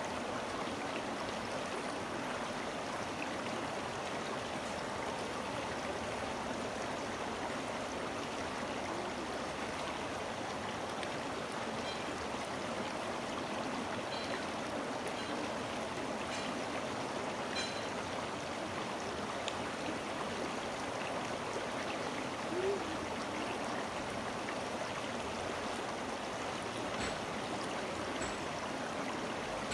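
A flowing stream, a steady rushing and burbling of water with no break, with a few faint short high ticks or chirps over it.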